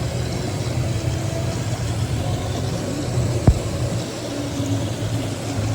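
Steady low motor hum, like a running vehicle engine, with one sharp click about three and a half seconds in.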